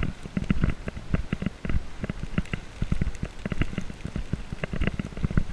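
Footsteps crunching through deep snow: a quick, irregular run of crisp crunches and crackles.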